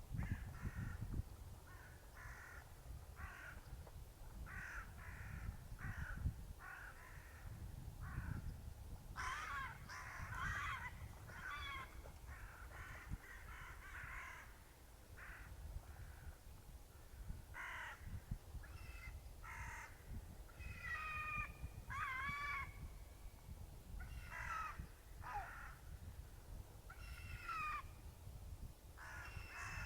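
Gull giving harsh, repeated calls, one after another with short gaps, louder and more drawn-out in the middle of the stretch.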